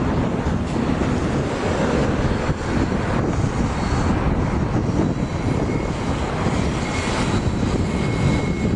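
Freight train passing: a steady, loud rumble of diesel locomotives and steel wheels rolling on the rails, with faint brief wheel squeals in the second half.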